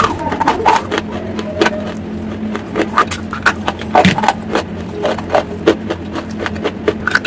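Close-miked chewing of hard, dry grey clay lumps: a quick, irregular run of crisp crunches, over a faint steady hum.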